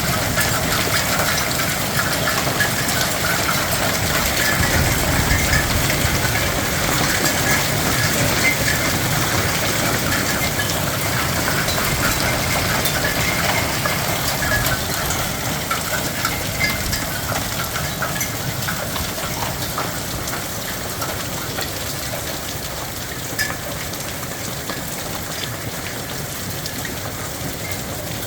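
Hail and rain pelting down: a steady rush of noise dotted with many small sharp ticks of stones striking, easing slightly in the second half.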